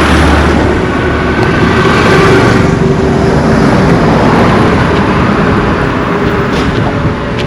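Steady road-traffic noise from a busy highway, with a motor vehicle passing close by about two seconds in.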